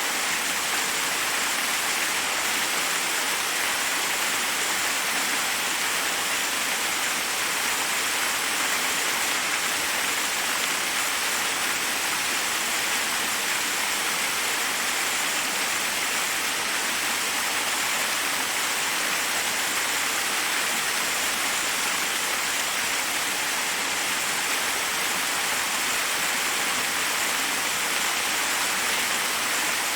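Forest waterfall: a steady, even rush of water falling over rocks, with no breaks or changes.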